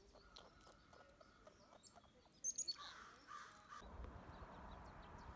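Small birds chirping, with a quick run of loud, sharp high chirps about two and a half seconds in. A low rumble sets in near the end.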